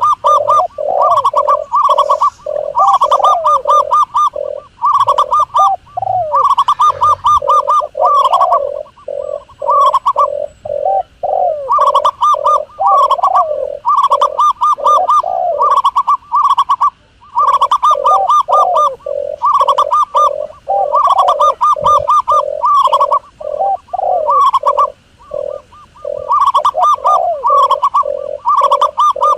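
Doves cooing: fast, repeated coo notes in runs of a few seconds, broken by short pauses.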